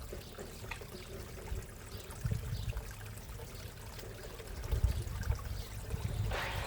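Backyard pond water trickling steadily, with gusty wind rumbling on the microphone. A louder mechanical noise comes in right at the end.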